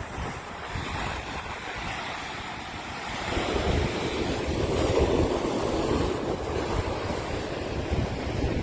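Ocean surf breaking and washing, with strong gusty wind buffeting the microphone. The surf swells about three seconds in, is loudest around five seconds, then eases.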